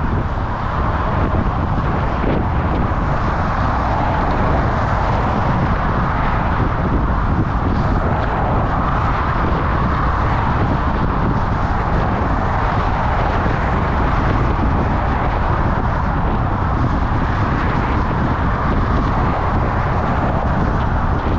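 Steady rush of wind and road noise while riding a bicycle, loud and even with a heavy low end and no distinct events.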